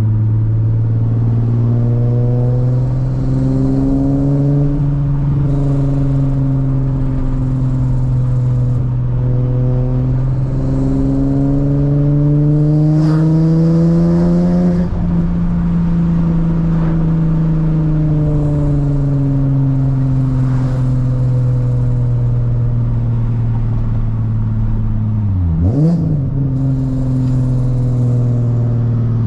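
V6 car engine under load through a custom titanium single-exit exhaust while driving. The engine note rises slowly as it accelerates to a peak about halfway through, then eases off. Near the end the revs dip sharply and come straight back up, as at a gear change.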